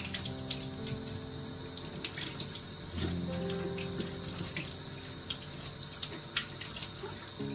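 Water running from a tap into a sink, with small splashes. Soft background music with long held notes plays underneath.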